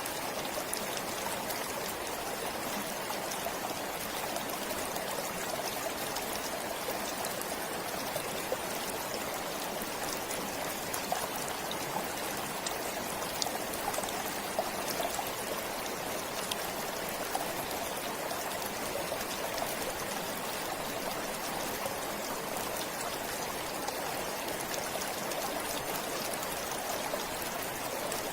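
Forest stream flowing steadily, with a constant rush of water and small trickles and splashes throughout.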